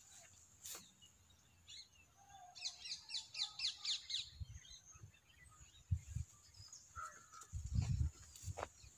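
A bird sings a quick run of about a dozen high, falling notes a few seconds in, over a steady high hiss. Low thumps and rumbles come in the second half, the loudest about eight seconds in.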